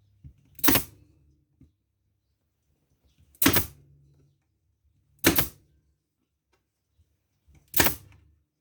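Manual staple gun firing four times, a sharp clack each, as staples are driven through linen hessian into the hardwood frame of a drop-in chair seat.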